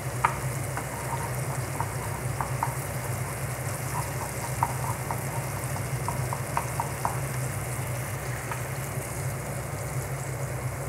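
Sliced onions and chili flakes frying in olive oil in a saucepan: a steady sizzling hiss with scattered small pops and ticks, over a steady low hum.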